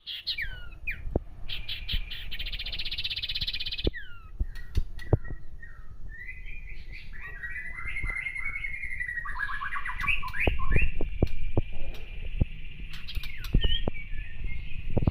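Cipow sirtu (iora) calling: quick descending whistles, then a harsh fast rattling chatter (cetrekan kasar) about two seconds in, followed by varied chirps and a wavering trill. Sharp clicks sound now and then throughout.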